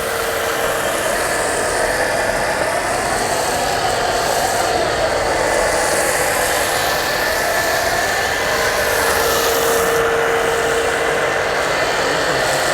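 Portable high-pressure car washer running steadily with a held motor tone, under the hiss of spray from its foam lance as it sprays foam.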